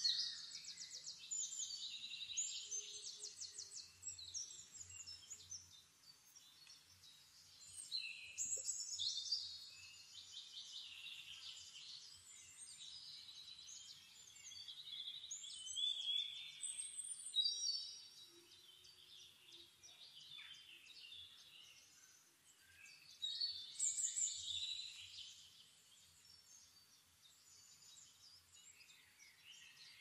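Songbirds singing: a high, rapid trilling phrase every seven or eight seconds, with quieter chirps in between.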